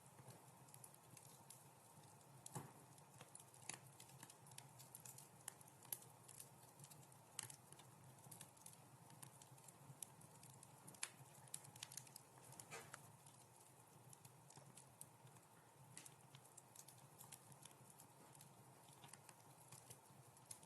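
Wood fire crackling faintly in a fireplace: irregular small pops and snaps, several a second at uneven spacing, over a low steady background.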